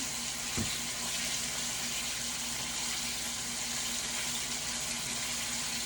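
Chicken wings sizzling steadily in hot frying oil: an even hiss, with a soft knock about half a second in.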